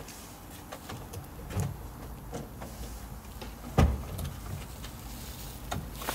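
A car's engine idling, a low steady rumble with light clicks over it, and one heavy thump about four seconds in.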